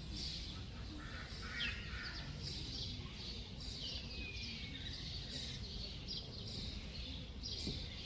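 Several songbirds chirping and trilling, with one long, slowly falling whistled note about four seconds in, over a steady low background hum.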